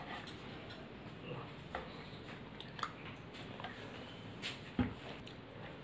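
Quiet eating sounds: a person chewing food, with soft wet mouth clicks and a few sharper clicks, the loudest a little under five seconds in.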